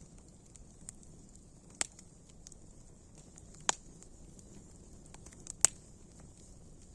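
Wood campfire crackling: a low, steady hiss of burning with scattered small snaps and three louder, sharp pops about two seconds apart.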